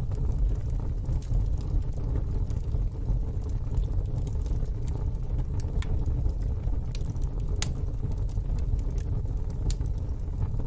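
Wood fire in a fire pit crackling, with scattered sharp pops, a stronger one about seven and a half seconds in, over a steady low rumble.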